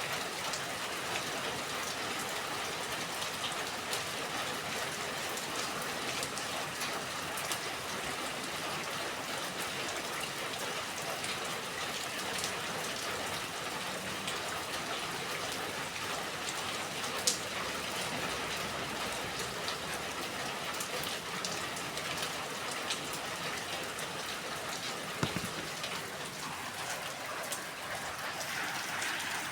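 Steady rainfall with individual drops pattering on a surface, with a few louder single drops now and then.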